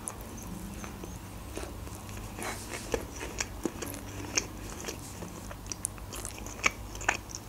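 A person biting into a burger and chewing it, with scattered soft wet mouth clicks and smacks.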